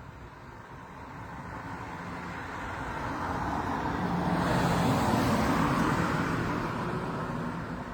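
A road vehicle passing by: tyre and engine noise swells smoothly, peaks about five seconds in, then fades away.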